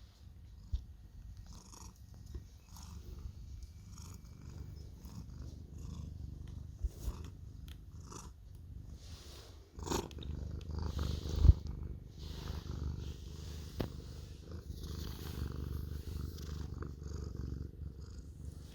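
Domestic cat purring loudly, a steady low rumble that swells and eases with its breathing, with light scratchy rustling over it. A sharp thump about eleven and a half seconds in is the loudest sound.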